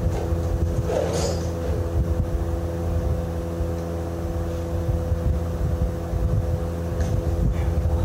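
An engine running steadily with a constant hum, with a brief noise about a second in and fainter short ones near the end.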